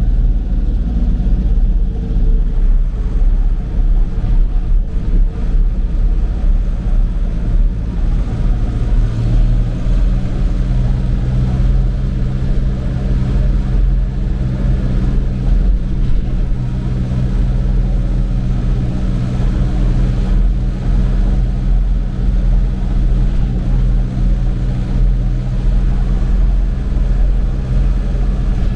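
Tractor engine running steadily at a constant speed while driving.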